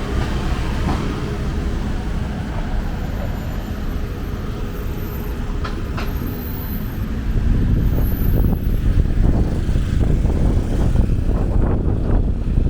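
Steady low rumble of passing city traffic, growing louder a little over halfway through.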